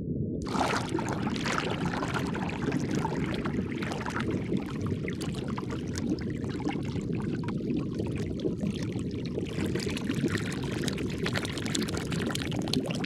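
Underwater ambience: a steady low rumble with bubbling, fizzing water over it, the bubbling coming in about half a second in.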